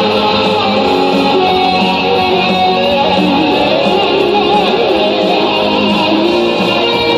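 Instrumental rock on electric guitar: a lead melody with bent and wavering notes over a dense, steady accompaniment.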